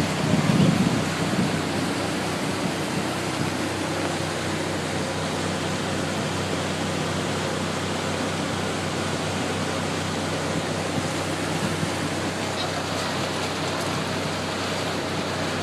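Motorboat underway: a steady engine hum under a loud, even rush of wind and water, a little louder in the first second or two.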